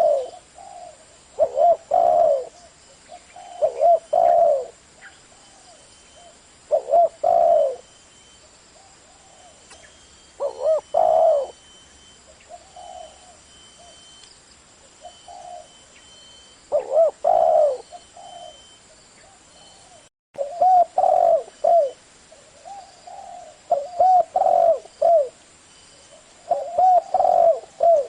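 Spotted dove cooing, a low coo phrase repeated every couple of seconds, with a pause of several seconds in the middle.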